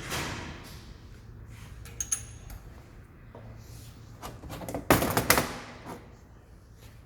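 Handling sounds of metal parts and tools: a sharp clink with a brief high ring about two seconds in, then a quick cluster of loud knocks about five seconds in, over a steady low hum.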